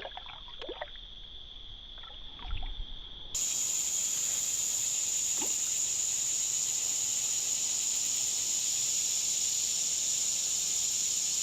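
Steady high-pitched chorus of insects. It rings at one tone at first, with a few faint knocks of handling, and about three seconds in it suddenly gives way to a louder, higher insect drone.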